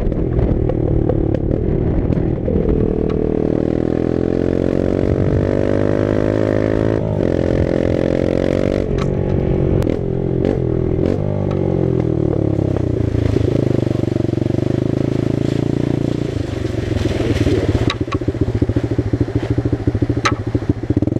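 Dirt bike engine running under way, revs climbing and breaking off twice as it shifts up through the gears. The revs then fall off, and in the last few seconds the engine settles to a low, quick putter as the bike slows.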